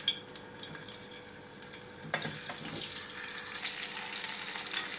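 Peeled boiled baby potatoes going into hot oil in an aluminium kadai: a light sizzle that swells about two seconds in as more potatoes hit the oil, then steady frying while a slotted spoon stirs them.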